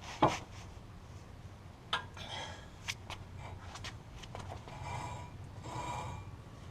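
Hand tools working on a wheel hub: a sharp metallic click, then two lighter knocks, followed by two short rasping sounds about a second apart.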